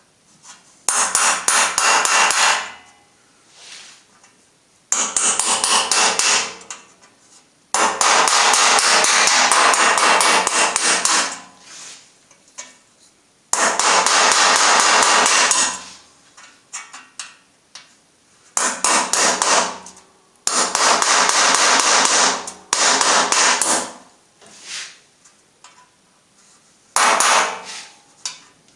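A power tool with a rapid hammering action, run in seven bursts of one to four seconds each with short pauses between, working on a damaged, stuck screw in the press's panel.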